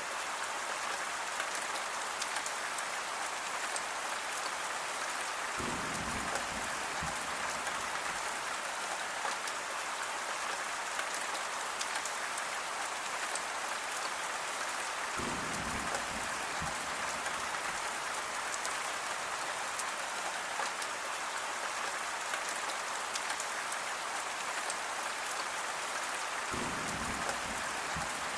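Steady rain falling, an even hiss of drops on surfaces. Three times, about ten seconds apart, a faint short low rumble sits under it.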